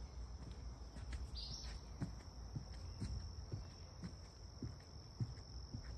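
Footsteps of a person walking on a trail, about two soft steps a second, over a steady high insect trill.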